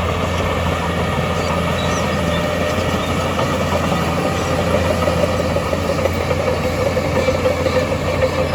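Heavy diesel earthmoving machinery running steadily, a constant engine drone.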